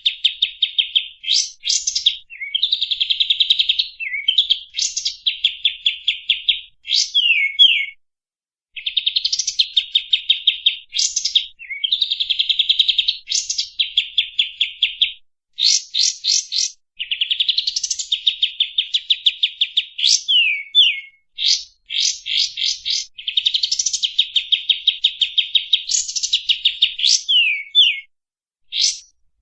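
Songbird singing loud, rapid, harsh rattling phrases of fast trills mixed with sharp rising and falling whistled slurs, repeated over and over with brief pauses: a recorded master song for training other cage birds.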